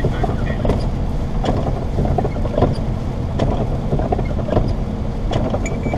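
Road and engine noise inside a moving car's cabin: a steady low rumble with scattered small knocks and rattles.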